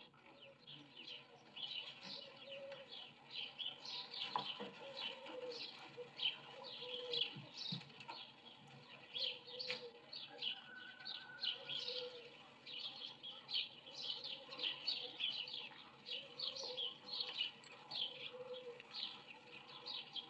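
Small birds chirping, a dense run of short repeated chirps, with lower notes now and then.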